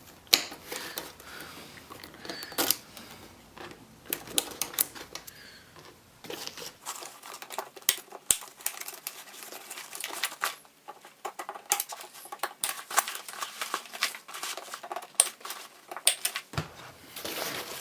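Handling noise from a soft tail bag and its fittings: many irregular sharp clicks and taps with some rustling.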